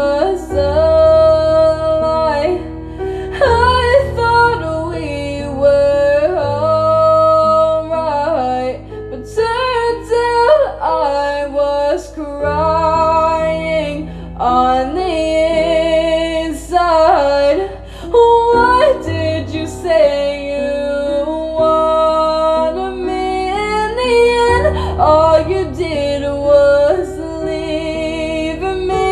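A song: a woman singing a melody over instrumental backing with sustained bass notes.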